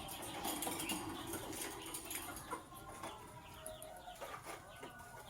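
Lovebirds chirping faintly in short, scattered notes, with light rustling and wing movement among them.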